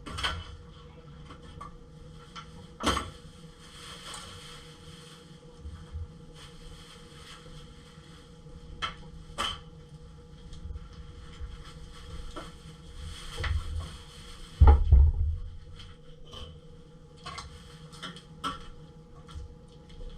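Kitchen work sounds: scattered knocks and clicks of pots, utensils and cupboards being handled, with one heavier thump about 15 seconds in, over a faint steady hum.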